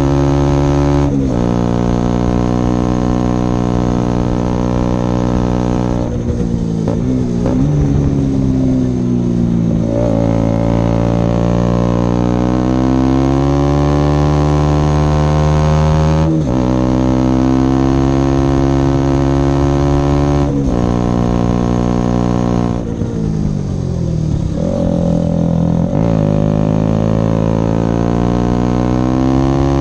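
KTM Duke 125's single-cylinder four-stroke engine on the move through an Akrapovic exhaust with the dB killer removed and a Leovince decat pipe. It holds steady revs, shifts pitch suddenly several times, and twice the revs fall away and then climb again.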